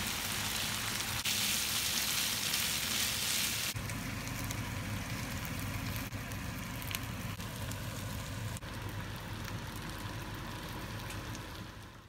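Gochujang-marinated pork belly, with sliced onion and garlic, sizzling in a hot frying pan: a steady frying hiss with small pops that shifts abruptly in level a few times.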